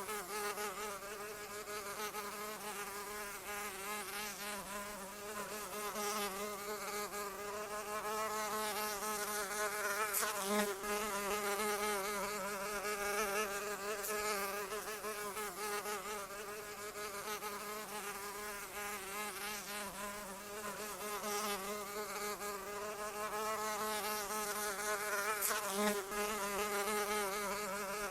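A flying insect's wings buzzing without a break, the pitch wavering slightly up and down.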